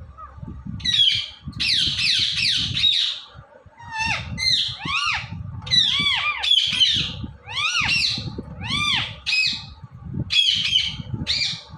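Indian ringneck parakeet giving repeated shrill squawking calls in bursts, each call a quick rise and fall in pitch.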